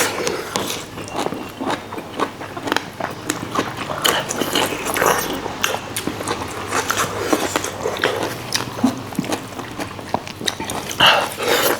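Close-miked eating of oily pangas fish: wet chewing and lip smacks in an irregular run of short clicks.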